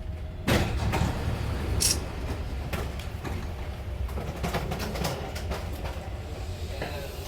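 Dubai Metro train running, heard from inside the carriage: a steady low rumble with scattered clicks, a sudden louder surge about half a second in and a short high hiss near two seconds.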